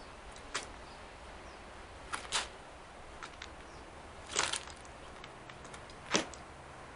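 A few sharp, separate taps and clicks over a steady background hiss: a California scrub jay's beak and the peanuts it picks over knocking on the porch boards.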